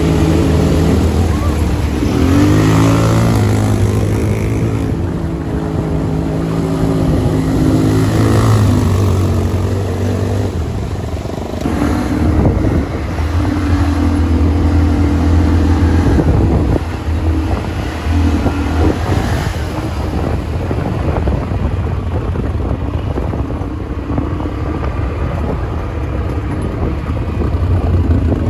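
ATV engine running on the move, its pitch stepping up and down every few seconds as the throttle is opened and eased, over a steady rumble.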